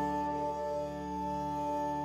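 Indian-style instrumental background music, a chord of steady held notes.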